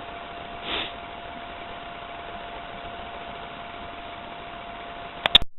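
Steady hiss with a faint, unchanging tone held underneath, a brief swell of noise about a second in, then a few sharp clicks near the end as the recording cuts off.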